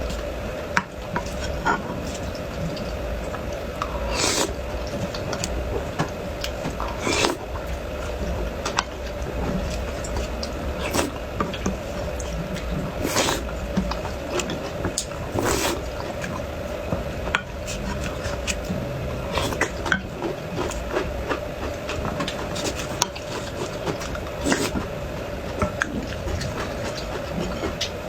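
Close-miked eating sounds: irregular wet clicks, smacks and crunches of chewing, with occasional utensil or dish clinks, over a steady hum.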